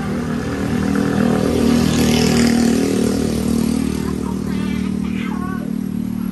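A motor vehicle engine running, growing louder to a peak about two seconds in and then fading, as if passing by.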